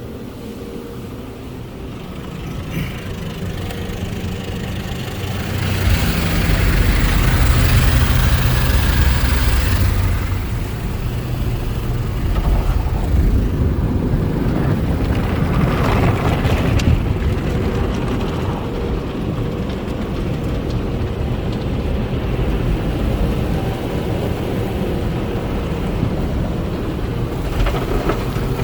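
Tommy's Express tunnel car wash equipment working over a car: a steady low rumble, with a loud rushing surge from about six to ten seconds in and a shorter one around sixteen seconds.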